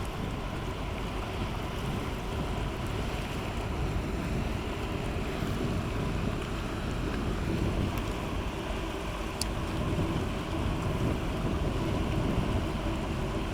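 Coastal cargo ship's diesel engine running with a steady low hum as it passes, under wind noise on the microphone and the wash of water.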